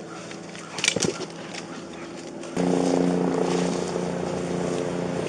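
Police helicopter engine and rotor noise, a steady low drone that jumps abruptly louder about two and a half seconds in. A few brief clicks come about a second in.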